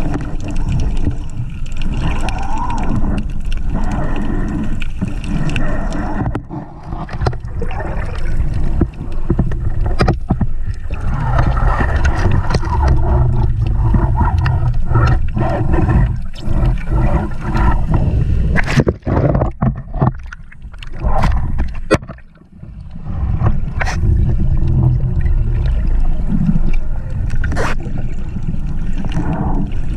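Water rushing and gurgling around an action camera in the sea, with a strong low rumble and a cluster of sharp knocks and clicks a little past the middle.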